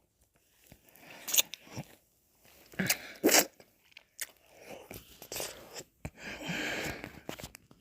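Close-miked mouth sounds of eating ice cream: irregular wet smacks, licks and chewing, with a longer slurping stretch near the end.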